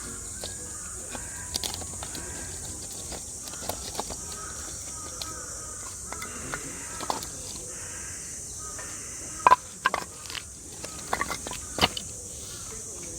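Steady high-pitched cicada chorus with scattered bird calls. A few sharp clicks and knocks come near the end.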